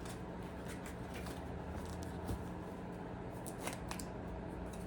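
A deck of tarot cards being shuffled by hand: soft sliding with a few sharp card snaps scattered through, over a low steady hum.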